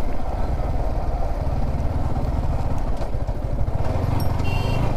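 Yamaha R15 V4's single-cylinder engine running steadily under a dense low rumble. A brief high-pitched tone sounds near the end.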